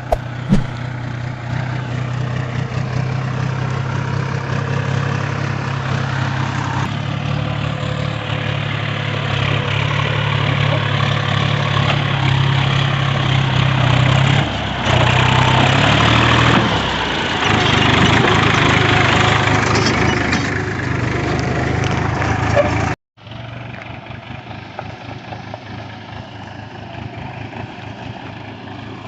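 New Holland 4710 tractor's three-cylinder diesel engine running under load, its pitch shifting and level rising around the middle as it labours. Near the end the sound cuts off abruptly and resumes quieter.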